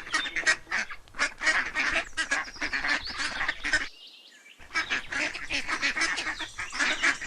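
Ducks quacking: many short calls in quick succession, as from a group, with a brief break about four seconds in.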